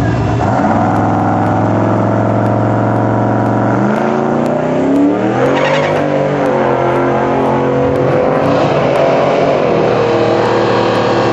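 Turbocharged 383 Windsor stroker V8 in a 1995 Ford F-150 Lightning pickup running loud and steady. About four seconds in, the engine note climbs over a couple of seconds as it accelerates, then holds at the higher pitch.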